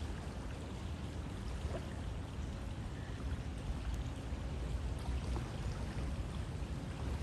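River water flowing steadily, a continuous low rush with a few faint splashes and trickles on top.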